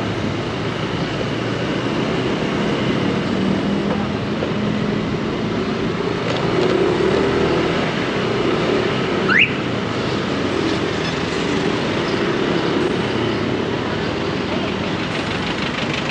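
Riding noise on a Honda Click 160 single-cylinder scooter moving through dense city traffic: a steady mix of engine, road and wind noise with surrounding traffic. About nine seconds in there is one brief, sharp rising chirp.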